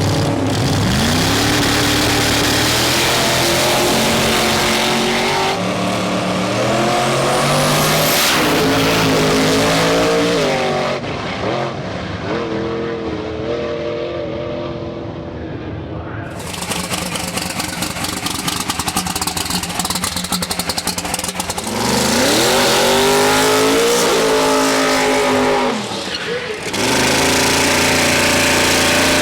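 Twin-turbocharged big-block Ford V8 in a 1967 Mustang fastback drag car, revving and accelerating hard several times, its pitch climbing in long sweeps. In the middle comes a quieter stretch with a fast crackle before it climbs again.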